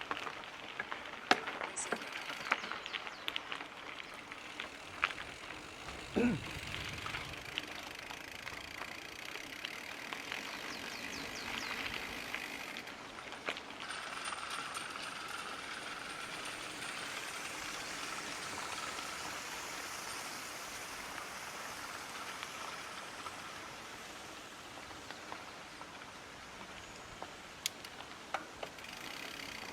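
Mountain bike riding over rough ground: a steady rush of tyre and trail noise, with scattered sharp clicks and knocks from the bike and one heavier thump about six seconds in.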